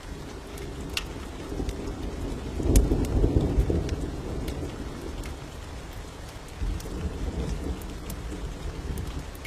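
Steady rain with a roll of thunder that swells about two and a half seconds in and fades away, and a weaker rumble later on. Scattered sharp pops of a crackling wood fire sound over the rain.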